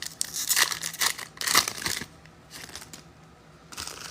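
Foil wrapper of a trading-card pack being torn open and crinkled in the hands, in quick rustling bursts. It pauses for about a second and a half and starts again near the end.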